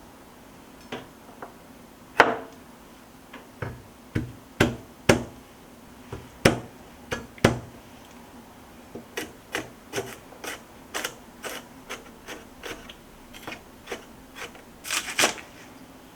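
Kitchen utensils knocking and tapping during food preparation: a string of irregular sharp knocks, sparse at first and then several a second in the second half.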